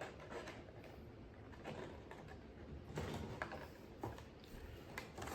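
Quiet room with faint scattered clicks and rustles of small objects being handled, and one sharp click at the very end.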